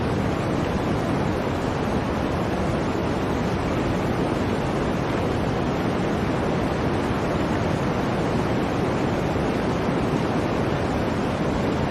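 Blizzard wind ambience: a steady, dense rush of wind noise, deep and even.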